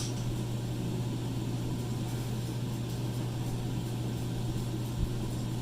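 Blacksmith's forge running steadily: a constant low hum with an even rushing noise, and a faint knock about five seconds in.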